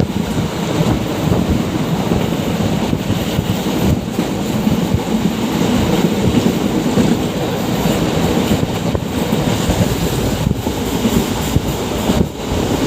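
Moving passenger train on the Konkan Railway: a steady, loud rumble of wheels running on the rails, with a few faint clacks.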